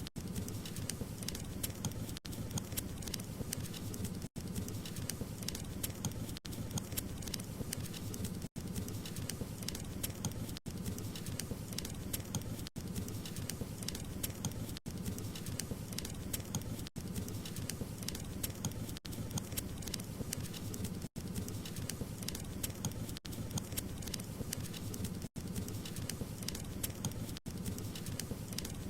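Wood fire crackling steadily, a dense run of small pops and snaps over a low rumble of burning. The sound drops out for an instant about every two seconds, like a short loop being repeated.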